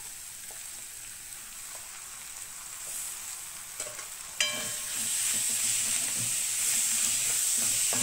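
Raw prawns frying in hot oil in a wok with onions and coconut: a steady sizzle that becomes louder about four and a half seconds in, when a wooden spatula knocks the pan and starts stirring them.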